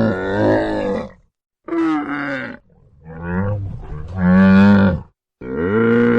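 A large animal giving a series of low, drawn-out calls, four in all, each a steady pitched moan, split by short gaps.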